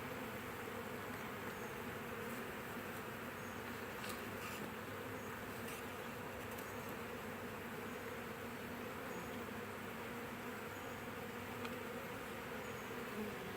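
A swarm of honey bees humming steadily as it walks into a new hive, a dense buzz of many wingbeats with no let-up.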